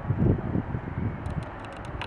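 Wind buffeting the microphone: an uneven low rumble that swells and drops in gusts, loudest just after the start, with faint scattered clicks.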